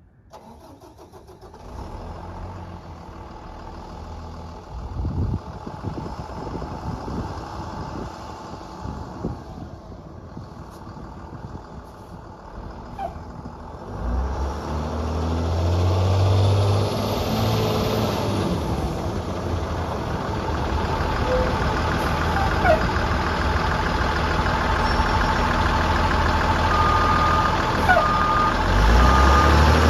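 Bucket truck's engine running, quieter at first, then rising in speed and level about halfway through and holding there. Near the end a series of short, even beeps sounds over it.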